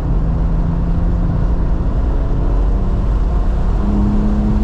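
Engine of a 2018 BMW M3 Competition, a twin-turbo straight-six, running hard at track speed, heard from inside the cabin over heavy road and wind rumble. About four seconds in, the engine note steps up to a higher, stronger pitch.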